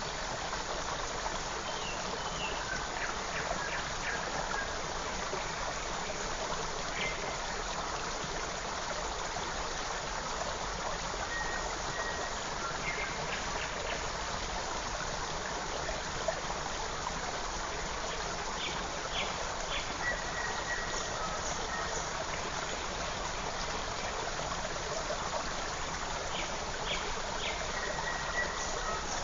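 Forest stream running steadily over stones, with faint short bird chirps here and there.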